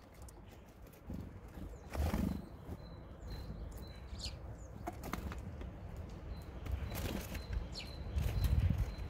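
Great tits landing, hopping and pecking on a wooden feeder tray: scattered knocks and wing flutters on the boards, a couple of brief high chirps, and thicker low scrabbling near the end as more birds arrive.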